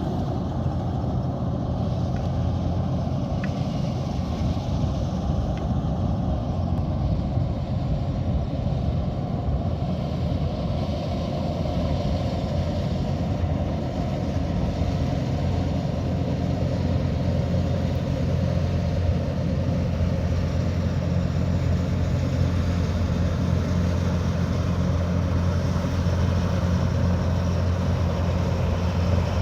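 Kubota DC108X combine harvester's diesel engine running steadily while harvesting rice, a low even hum with a constant pitch that grows a little stronger in the second half.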